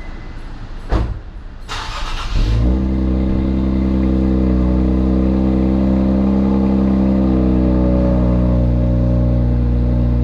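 Infiniti Q50 Red Sport 400's twin-turbo V6 starting up. There is a click about a second in, a brief crank, and then the engine catches and settles into a loud, steady idle.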